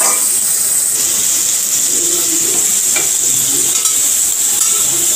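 Spice paste and water sizzling and bubbling in hot oil in a kadai, a steady hiss, while a metal spatula stirs and scrapes the pan. Water has just been added to the frying masala.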